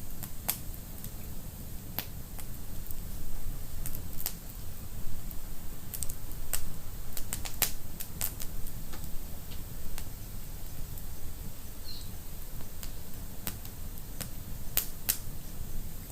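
Wood fire burning in a fireplace: a steady low rumble with irregular sharp crackles and pops, most of them bunched between about six and eight seconds in.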